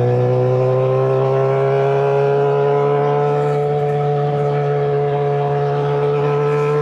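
Suzuki GSX-R600 inline-four engine running through an M4 slip-on exhaust at steady revs. The pitch rises slightly over the first few seconds, then holds.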